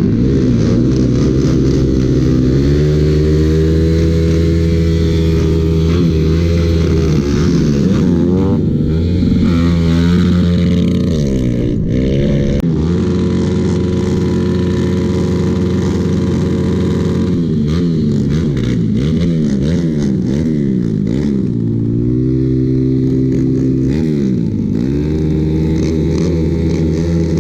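Motorcycle engines running, their pitch holding steady for stretches and then repeatedly rising and falling as they are revved. The sound changes abruptly about twelve seconds in.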